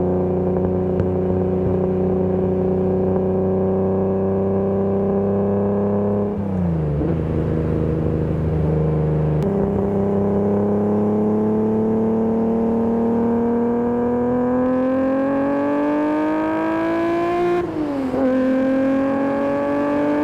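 BMW E30 323i's 2.3-litre M20 straight-six engine under way, holding steady revs, then dropping briefly about six seconds in. About nine seconds in it picks up again and revs climb steadily for several seconds through the gear, fall sharply at an upshift near the end, then climb again.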